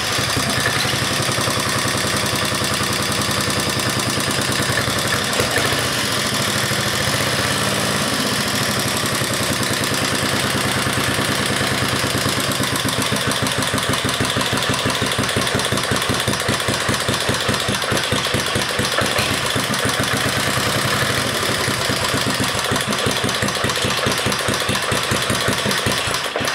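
Vintage 1968 Briggs & Stratton 6 hp single-cylinder four-stroke flathead engine running steadily on its first start, a fast even beat of firing pulses. It dies at the very end, throttled down too far.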